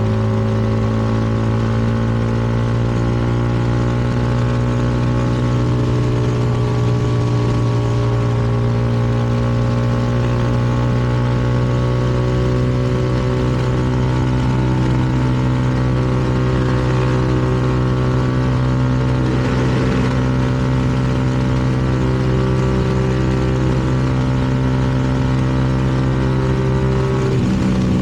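CFMoto 300NK's single-cylinder engine running at a steady cruise, its pitch holding nearly constant, with a brief change in pitch near the end.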